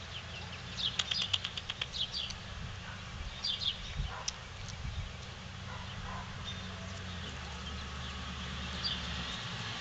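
Small birds chirping in short, scattered calls, over a steady low rumble that grows a little louder toward the end.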